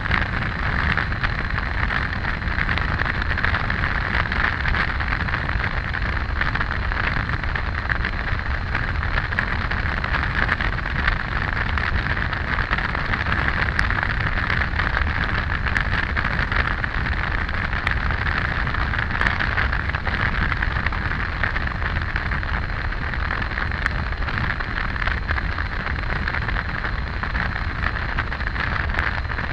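Triumph Tiger 800 motorcycle riding steadily at road speed: constant rush of wind and road noise over the engine, with no change in pace.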